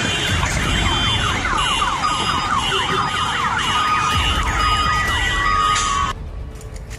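Several electronic alarms or sirens sounding at once, with fast repeating pitch sweeps and beeping tones over a loud rumbling noise, set off around the scene of a car-bomb blast. All of it cuts off suddenly about six seconds in.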